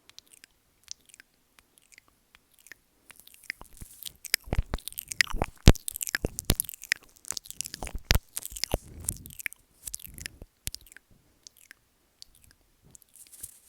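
Close-up ASMR mouth sounds on the microphone, mic licking and nibbling: wet clicks and smacks, sparse at first, thickening into a dense, louder run from about three seconds in, then thinning out again near the end.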